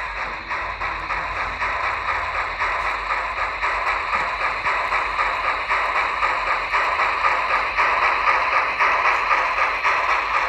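N-scale model train running on a layout, a steady mechanical clatter of its wheels and small motor on the track.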